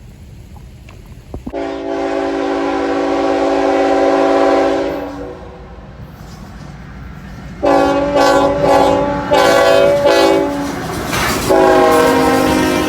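Diesel locomotive air horn sounding a multi-note chord: one long blast, then a quick run of short blasts, then another long blast near the end.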